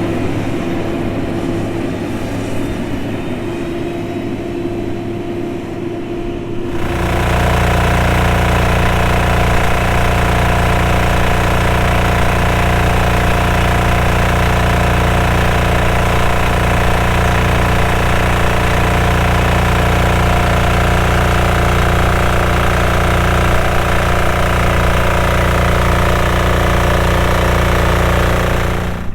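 Motor grader's diesel engine running steadily as the machine works. About seven seconds in the sound changes abruptly to a louder, fuller engine note that holds steady.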